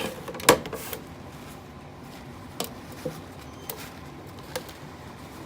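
Small pet parrot making soft calls, with one sharp knock about half a second in and a few lighter clicks and taps after it.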